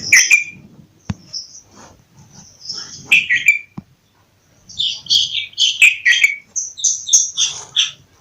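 Bulbul calling in groups of short, quick chirping notes: a brief phrase at the start, another about three seconds in, and a longer run through the second half. A single sharp click comes about a second in.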